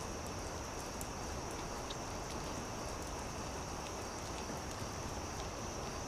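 Campfire crackling: a steady low hiss with scattered small sharp pops and snaps, a few each second, over a constant high-pitched drone.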